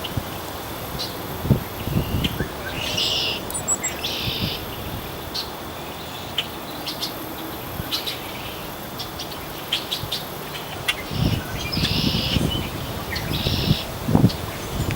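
Wild birds calling: a harsh, noisy call about half a second long repeated several times, with short sharp chirps in between. Low gusty rumbles of wind on the microphone come in near the end.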